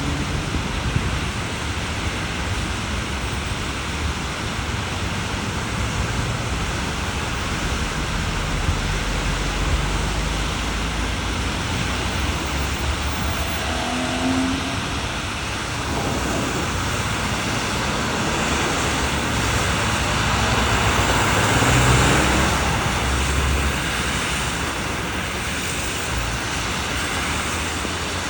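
Steady rain and city traffic on wet roads, a continuous hiss with low engine rumble; one vehicle swells louder and fades about three quarters of the way through.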